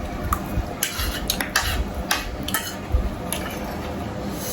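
Cutlery clinking and scraping against plates and bowls while food is eaten, in short irregular clicks.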